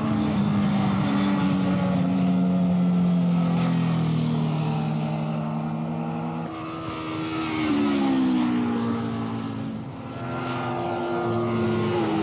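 Racing motorcycle engines at speed, several at once. Their pitch sinks slowly for about six seconds, then climbs again as the bikes accelerate, rising once more near the end.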